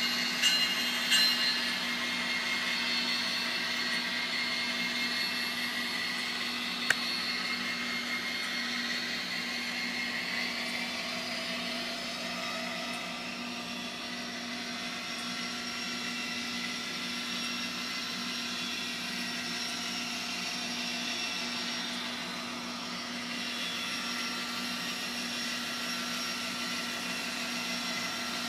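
LokSound micro sound decoder in an N scale GP60M model playing a GP60 diesel locomotive sound through its small speaker: a steady engine drone with turbocharger whine, whose pitch rises and shifts about ten to thirteen seconds in. One sharp click about seven seconds in.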